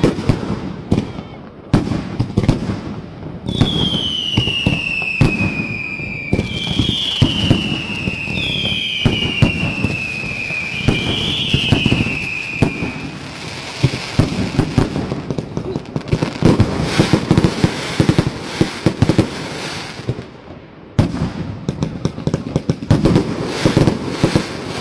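A 600-shot fireworks cake firing a rapid, continuous run of bangs and crackles. A few seconds in, four whistling shots follow one another, each falling in pitch. There is a short lull about twenty seconds in before the firing picks up again.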